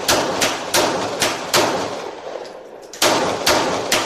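A rapid string of pistol shots from two handguns fired dual-wielded, about two to three a second, each trailing off in an echo. The firing pauses for about a second and a half in the middle, then resumes.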